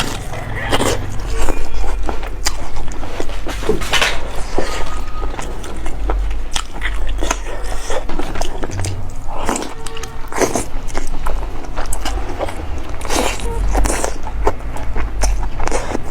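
Close-miked biting and chewing of herbal-braised chicken, with many irregular sharp clicks and crackles.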